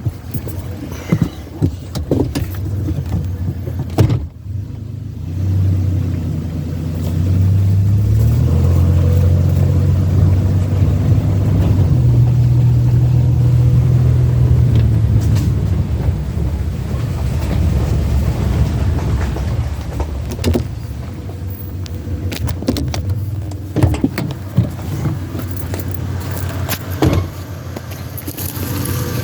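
Vehicle engine running, its low hum rising in steps between about six and fifteen seconds in and then easing back, with a few sharp knocks over it.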